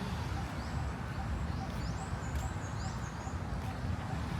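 Birds calling in a park: short high chirps repeated every second or so, with a warbling high phrase about two seconds in, over a steady low rumble.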